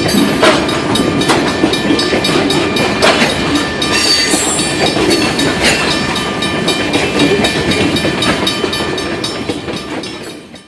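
Railroad cars rolling past, wheels clicking rapidly over rail joints over a steady rumble, with a few thin high ringing tones from the wheels and rails. The sound fades out near the end.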